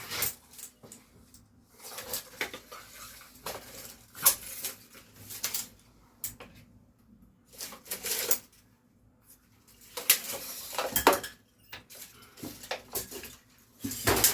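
Irregular clatter and sharp knocks of ceiling work: wooden battens being handled and set in place, in short bursts with pauses between.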